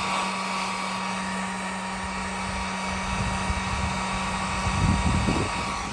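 Heat gun running on its low setting: a steady blowing hiss with a low motor hum. The hum stops near the end and the airflow dies away, with a few low handling knocks.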